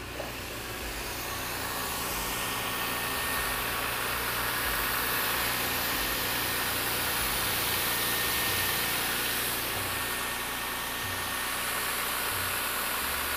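BMW E46 M3's S54 inline-six running just after a cold start following months of standing, with a pump running brutally loud over the engine. The level builds over the first two seconds and then holds steady. The lifters clatter for a few seconds before going quiet.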